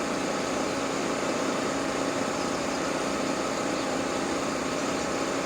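Portable generator running steadily: an even engine hum with a constant tone.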